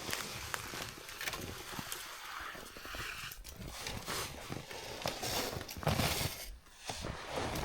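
Footsteps crunching on hard, crusted snow at a walking pace, with a loaded sled sliding and scraping behind.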